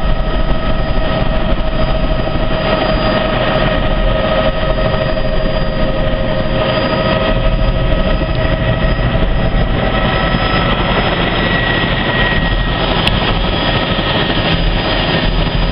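Helicopter running: a loud, steady drone with a few steady whining tones over a low rumble.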